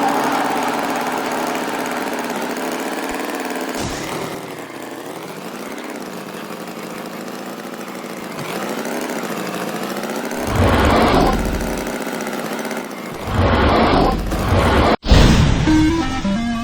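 An engine running with a wavering, uneven hum. It grows louder and rougher twice in the second half, then fades out.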